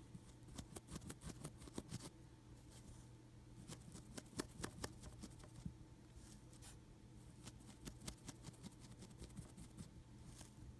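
Faint, irregular scratchy ticks of a stiff paintbrush dry-brushing paint over a hard Hydrocal plaster casting, each stroke catching the raised high points.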